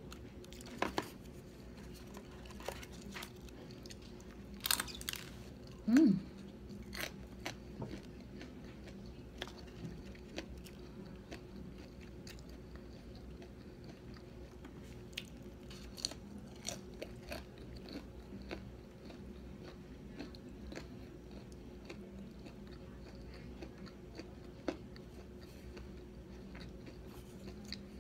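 Close-up chewing and crunching of fried onion rings, with scattered sharp crunches and clicks, the loudest a few seconds in. About six seconds in there is a short low sliding sound.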